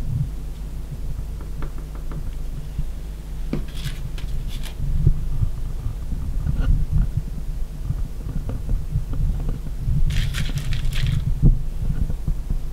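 Low steady hum with soft irregular thumps and small clicks, and two brief rustles, about four seconds in and near the end: handling noise at a work table as small plastic mosaic pieces are set and glued onto a glass plate.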